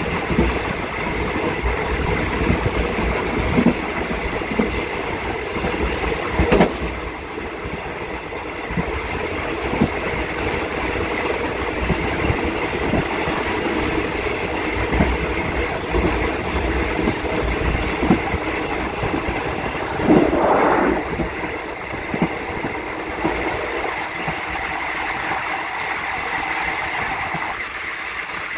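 Train carriage running along the rails, heard from the rear of the last car: a steady rumble with irregular wheel clicks, a sharp knock about six seconds in and a brief swell of noise about twenty seconds in.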